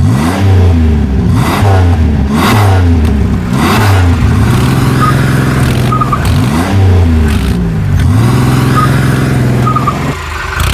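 Truck engine revving hard again and again, its pitch rising and falling about once a second, straining to pull a stuck tractor out of mud. It drops away shortly before the end.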